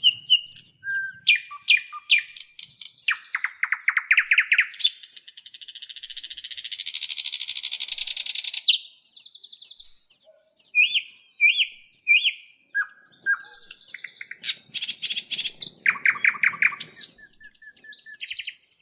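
Small birds chirping and trilling: a run of short high chirps and quick rattling trills. A long, even buzzing hiss lasts about four seconds starting around five seconds in.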